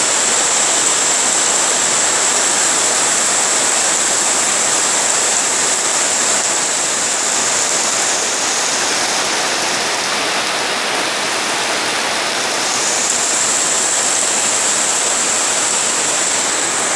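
Steady heavy rain falling, an even rushing hiss with no breaks. A high, steady shrill tone sits above it, dropping away for a few seconds midway and then returning.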